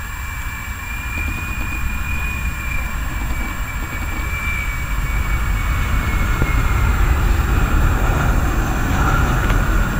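Boeing 737-300's CFM56-3 jet engines on landing approach, a low rumble with a high whine, growing louder. The whine slowly falls in pitch and fades about seven seconds in.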